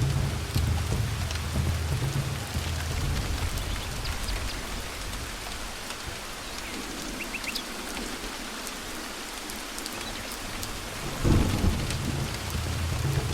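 Thunderstorm: steady rain falling, with a low rolling rumble of thunder that dies away by the middle. A sudden loud thunderclap breaks near the end, and the rumble returns.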